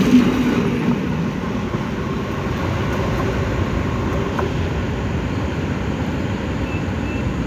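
Passenger train carriages rumbling past on the rails. The sound eases about a second in as the last coach goes by, then carries on as a steady rumble while the tail of the train pulls away.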